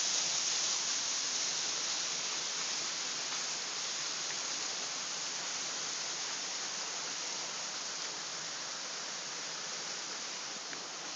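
Waterfall in a canyon: a steady rush of falling water with a hissing edge, easing slightly over the first few seconds.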